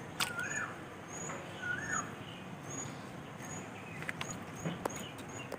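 A bird gives two rising-and-falling chirps in the first two seconds, with short high peeps repeating throughout, over a steady noisy background. Several sharp clicks come mostly in the second half as raw mutton pieces are handled and rinsed in a steel bowl of water.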